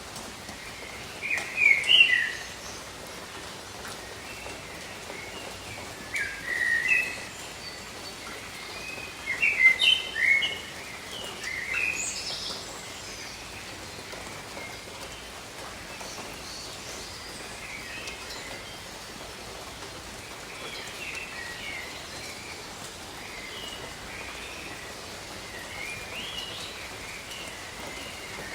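Steady rain hiss with birds calling over it: a few loud bursts of chirping in the first twelve seconds, then fainter calls scattered through the rest.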